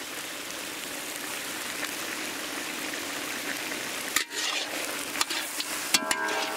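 Chicken masala sizzling steadily as it fries in a large iron kadai, with chili powder just stirred in. From about four seconds in, a metal ladle knocks and scrapes against the pan a few times.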